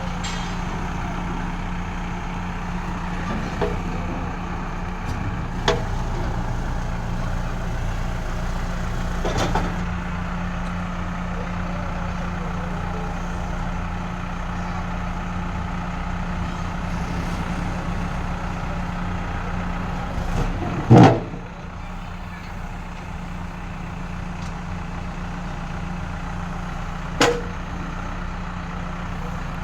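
Diesel engine of a backhoe loader running steadily, with a few short metallic knocks and one heavy thump about two-thirds of the way through, after which the engine is a little quieter.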